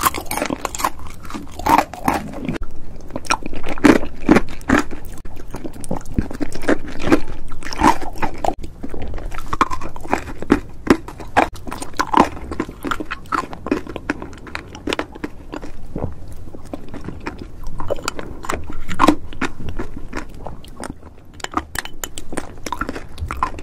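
Close-miked ASMR eating: crunching and chewing of crunchy caramelized sweets, with many sharp crunches, then softer mouthfuls of custard taken from a spoon near the end.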